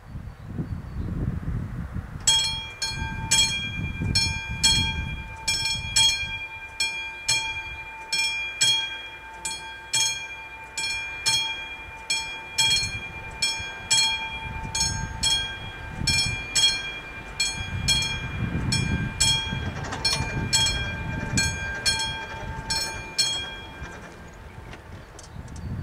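Classic electromechanical level-crossing warning bell ringing with about two metallic strikes a second, each leaving a ringing tone; it starts about two seconds in and stops shortly before the end. A low rumble runs underneath.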